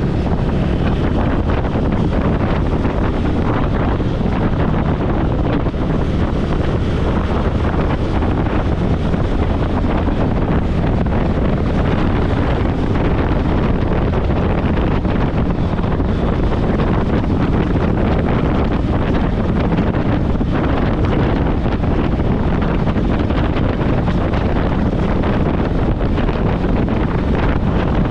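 Steady wind rushing over a motorcycle rider's camera microphone at riding speed, heavy and low, drowning out the bike underneath.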